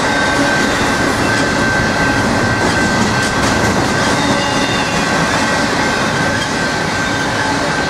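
Double-stack intermodal freight cars of a Norfolk Southern train rolling past at speed: loud, steady noise of wheels on the rails, with a steady high-pitched squeal over it.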